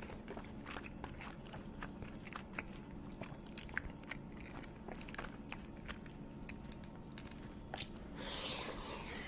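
A person chewing food close to the microphone, with many soft, irregular crunchy clicks of mastication. There is a brief rustling noise near the end.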